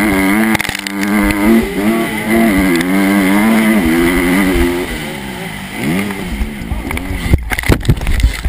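Dirt bike engine running at a held, wavering pitch, then revving up and down several times after about five seconds, with a few sharp knocks near the end.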